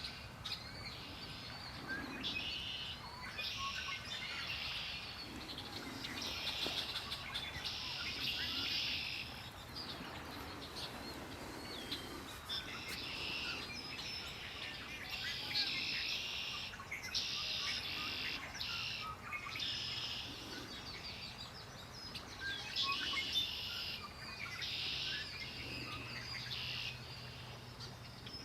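Songbirds singing: a buzzy, trilled song about a second long, repeated every second or two, over scattered short chirps from other birds.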